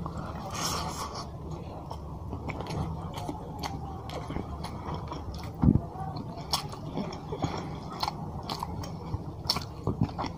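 Close-miked chewing of hand-fed rice and fish curry, with many wet mouth clicks and smacks. A single loud low thump comes a little past halfway.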